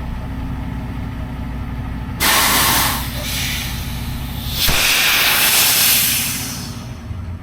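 Tractor-trailer's diesel engine idling, cut through by two loud air-brake hisses: a short one about two seconds in and a longer one about five seconds in that fades away.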